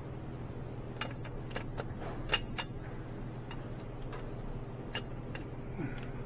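Scattered sharp metallic clicks and taps of hand tools and parts being handled, about eight in all and loudest a little over two seconds in, over a steady low hum.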